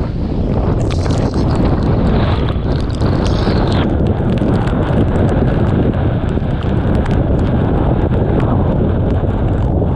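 Typhoon wind in the eyewall, a loud continuous roar buffeting the microphone, with many small sharp ticks over it from about four seconds in.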